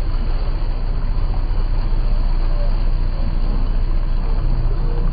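Motorboat engine running steadily under way: a loud, even, low rumble.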